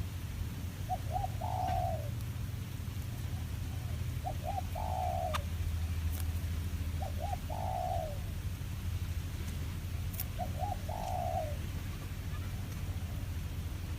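A dove cooing: the same call four times, about every three seconds, each call two short notes followed by a longer falling note, over a steady low hum.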